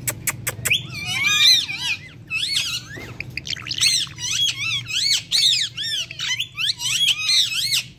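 Pet parrots chattering: a fast, continuous run of short, shrill calls that sweep up and down in pitch, starting about a second in after a few sharp clicks.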